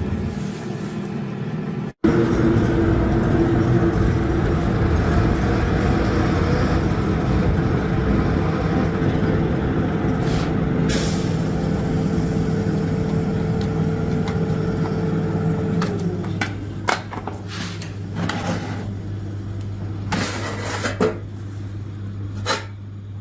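Restored air fryer running, its fan motor giving a steady hum, then the motor winding down about 16 seconds in, leaving a low hum and a few clicks and knocks.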